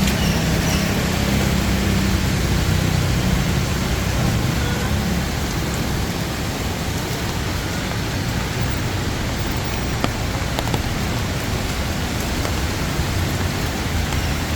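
Steady rain falling on a city street, an even hiss, with a vehicle engine running low under it for the first few seconds.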